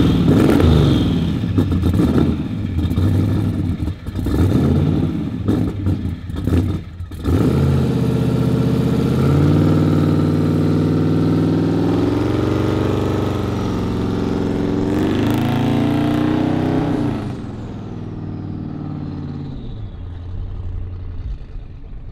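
Twin-turbocharged 427 V8 of a 1971 Chevrolet Impala revved several times in quick blips, then pulling away and driving off, its note rising and falling before fading after about 17 seconds.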